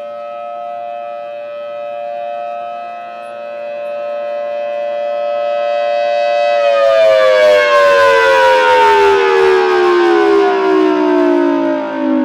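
Civil defense warning siren sounding a tsunami warning: a steady multi-tone wail that swells slowly in loudness, then about two-thirds of the way through begins winding down, its pitch falling steadily.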